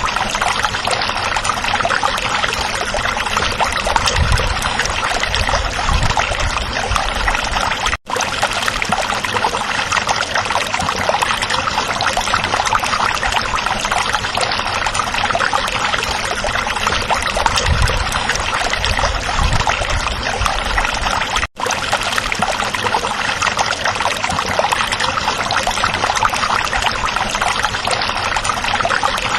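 Small stream of water babbling and trickling over stones, a steady continuous rush. It cuts out for an instant twice.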